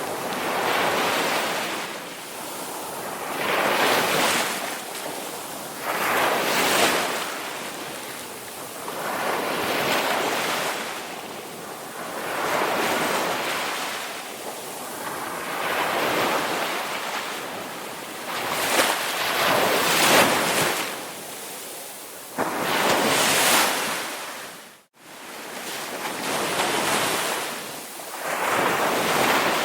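Ocean waves breaking and washing in surf, each swell of noise rising and fading every two to three seconds. About 25 s in, the sound cuts out for an instant.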